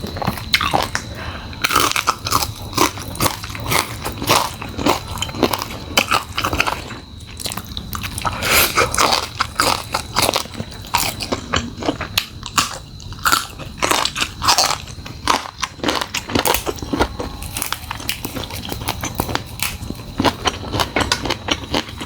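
Close-miked biting and chewing of crunchy food, with irregular crunches several times a second throughout.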